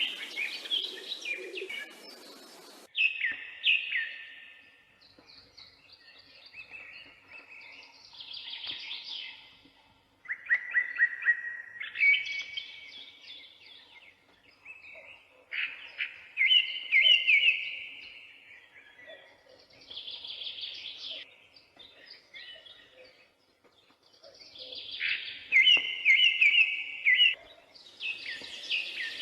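A bird singing: a run of separate song phrases, each a second or two long and made of quick, sharp notes, with short pauses between phrases.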